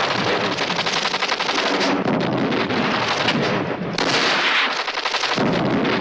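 Rapid automatic gunfire in a film soundtrack: a dense rattle of shots.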